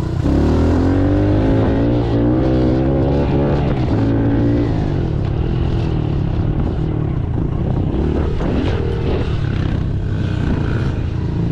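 Pit bike engine revving up just after the start and pulling at high revs for a few seconds, then easing off to lower revs, with wind rushing over a helmet-mounted microphone.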